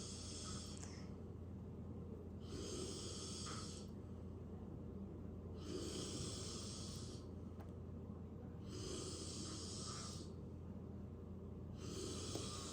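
Slow, regular breaths: a hissy breath about every three seconds, over a steady low hum.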